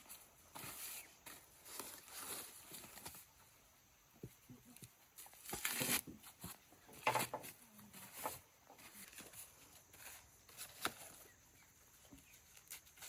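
Dry corn plants rustling and crackling in irregular bursts as corn is being harvested, with a few louder snaps and rustles about six and seven seconds in.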